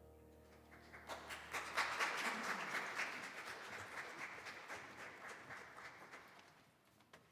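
A congregation applauding, starting about a second in, strongest soon after and gradually dying away over several seconds.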